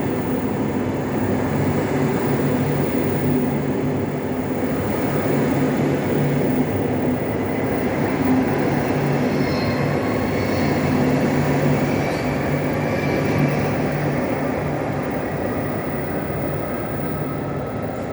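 PKP Intercity Pendolino electric train running through the station: a steady rumble with humming tones that eases slightly near the end.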